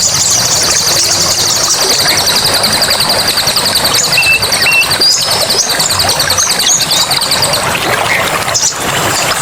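Birds chirping in a forest, with one long, fast, high trill that stops near the end and short chirps and whistles around it, over a steady rush of water.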